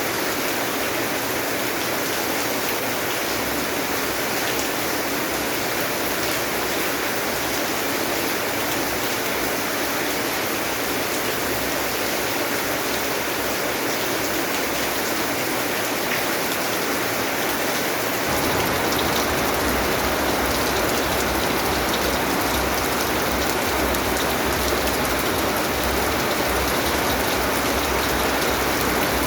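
Steady rain falling, a dense, even patter. About two-thirds of the way through, a deeper low rumble comes in under it.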